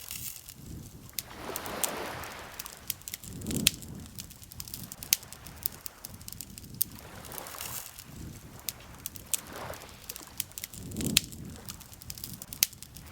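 Campfire crackling with frequent sharp pops and snaps, over soft swells of lake water lapping at the shore every few seconds.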